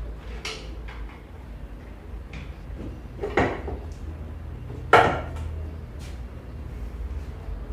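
A few sharp metal clinks and knocks of tools and engine parts being handled during scooter engine teardown, the loudest about five seconds in.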